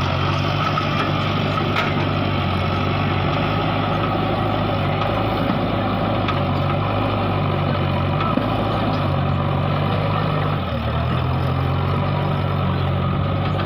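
Mahindra tractor's diesel engine running at a steady speed, with a brief dip about ten seconds in.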